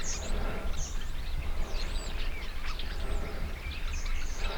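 Birds chirping, many short overlapping calls, over a steady low background rumble.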